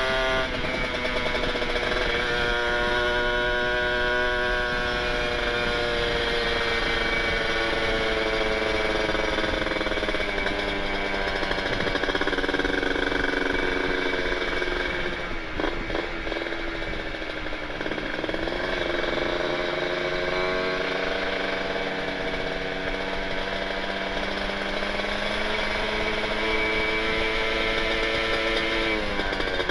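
Kawasaki Ninja 150RR two-stroke single-cylinder engine running through an aftermarket Aitech carbon-kevlar exhaust with expansion chamber while riding. The pitch rises and falls with the throttle, with sharp dips about halfway through and again near the end, as at a gear change or throttle lift.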